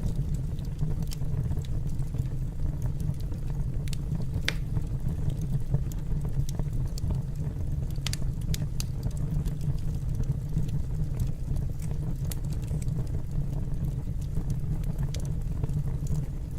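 Wood fire burning in a fireplace: a steady low rumble with scattered sharp crackles and pops, one stronger pop about four and a half seconds in.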